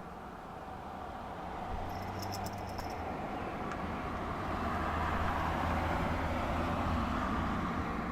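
A vehicle passing: a broad rumble with a low hum, swelling gradually over several seconds. A brief run of rapid high ticks, about eight in a second, comes a couple of seconds in.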